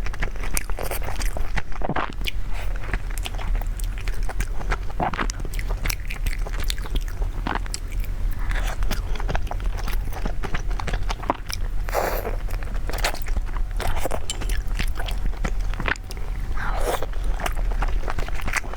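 Close-miked eating of soup dumplings: biting and chewing, an irregular run of short wet clicks with a few longer slurp-like passages, over a steady low hum.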